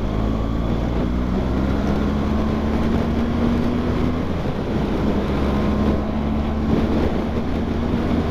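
BMW R1200GS liquid-cooled boxer-twin engine running under way, heard from the rider's helmet over heavy wind noise. The engine note climbs slightly, breaks off briefly about halfway through, then picks up again.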